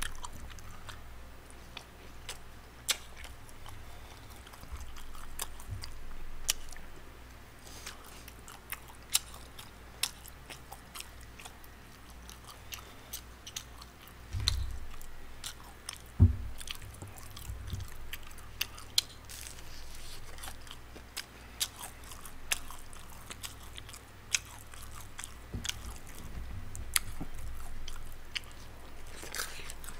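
Close-miked chewing and biting, with scattered sharp crunches and clicks, of a person eating spicy rice-cake tteokbokki and Korean fried snacks with chopsticks. A couple of low thumps come around the middle.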